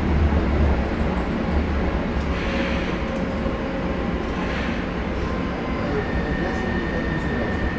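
KVB B80D light-rail car running, heard from on board: its old traction motors rumble under the sound of its new traction converter. A steady high whine from the converter comes in about six seconds in.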